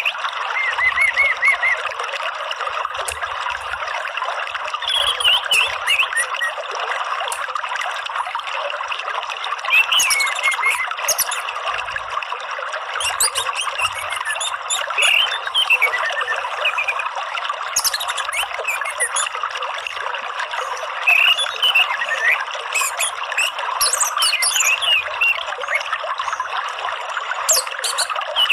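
Running water trickling steadily, with short bird chirps and gliding calls over it every few seconds.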